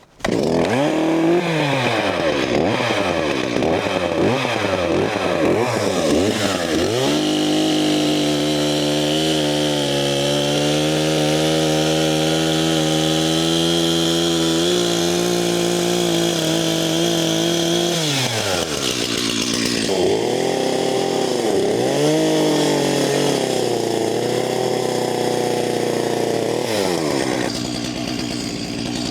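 An engine revving up and down repeatedly, then holding a steady speed, with a few more dips in pitch and a drop near the end.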